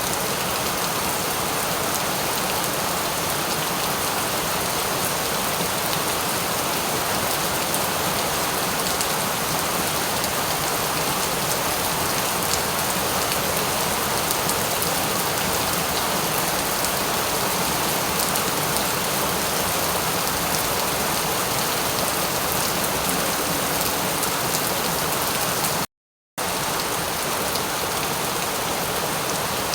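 Steady rain, an even hiss of many drops with no change in strength. Near the end the sound cuts out completely for about half a second, then resumes.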